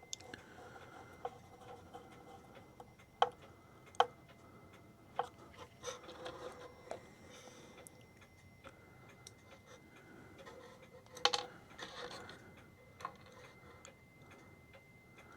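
Faint ticking of a running pendulum clock movement, with scattered sharp clicks and taps of small tools and screws as the movement is fitted into its case.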